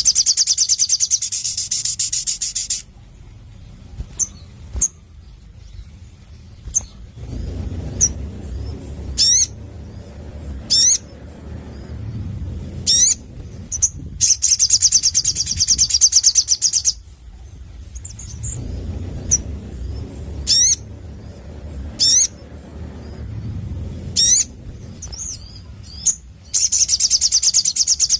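Sogon sunbird singing: a rapid, high trill lasting two to three seconds comes three times, at the start, in the middle and near the end, with short sharp up-and-down whistled notes between them. A low rumble runs underneath between the trills.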